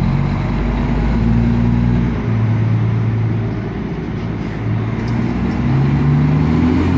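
Fire engine's engine running as the truck pulls away. Its pitch drops about two seconds in and rises again near the end.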